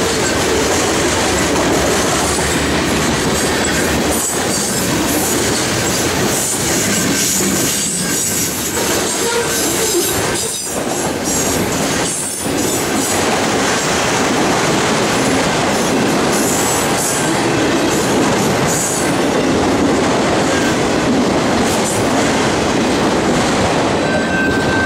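Freight cars (covered grain hoppers, then autorack cars) rolling past close by: a steady, loud rush of wheels on rail.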